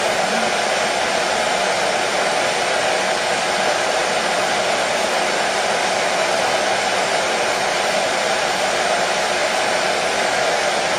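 Hair dryer running continuously at a constant speed: a steady, even whoosh of fan and airflow noise with no change in pitch or level.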